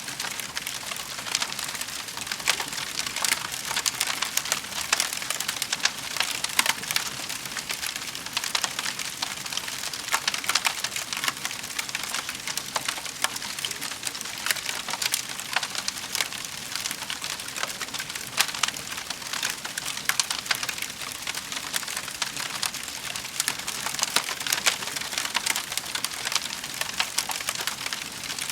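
Wood fire in a fireplace crackling steadily, with dense small pops and snaps.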